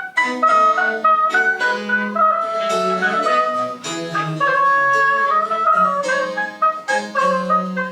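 Baroque chamber music played live: wind instruments carry interweaving melodic lines over a held bass line, with crisp plucked-string attacks marking the beat.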